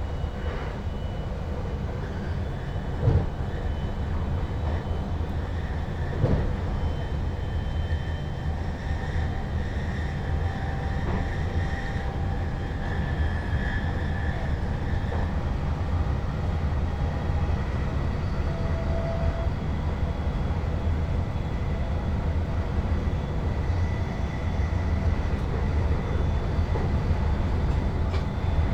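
Electric NS Sprinter Lighttrain (SLT) running along the track, heard from inside the driver's cab. A steady rumble carries faint whining tones over it, with two sharp knocks about three and six seconds in.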